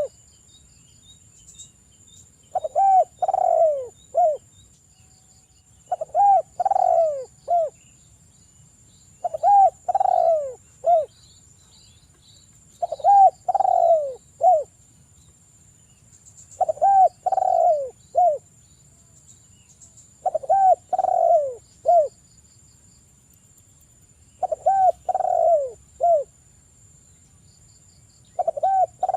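Spotted dove (derkuku) cooing: a phrase of three or four coos, each dipping in pitch, the last one short, repeated about every three and a half seconds.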